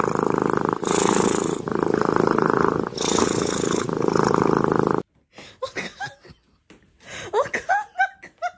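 A cat purring loudly close to the microphone, in long alternating breaths, cutting off abruptly about five seconds in.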